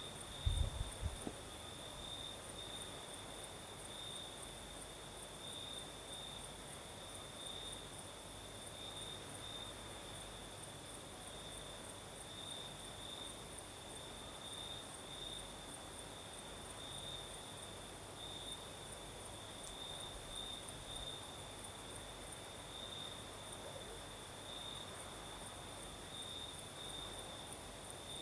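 A chorus of crickets chirping at night: a steady trill at a middle-high pitch and a higher, fast-pulsing trill over it. A brief low rumble comes about half a second in.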